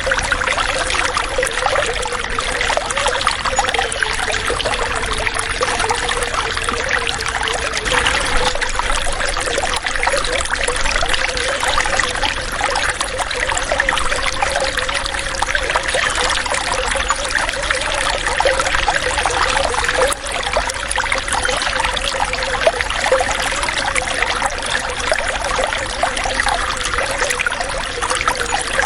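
Running water trickling and splashing steadily, a continuous gurgling flow with a faint wavering tone running through it.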